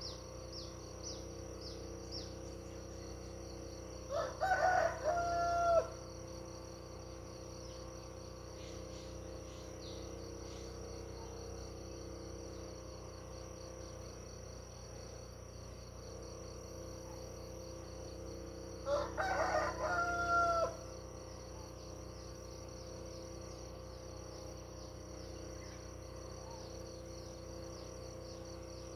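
A rooster crowing twice, about fifteen seconds apart, each crow under two seconds long and ending on a held note. A steady high trill of insects runs underneath.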